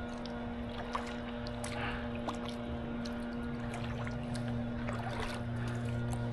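A canoe being paddled: small paddle splashes and water trickling and dripping, with scattered light ticks, over a steady low hum.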